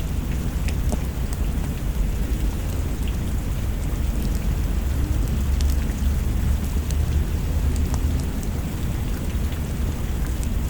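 Steady rain with a low rumble of thunder that swells in the middle, and sparse sharp crackles from a wood fire.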